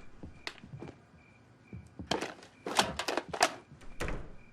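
A string of knocks and thuds, several in quick succession about two to three and a half seconds in and one more near the end: household objects being handled and set down during cleaning.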